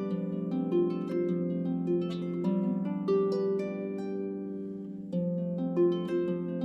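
Solo harp music: plucked notes that ring on over held lower notes, thinning out for a moment before a fresh cluster of notes about five seconds in.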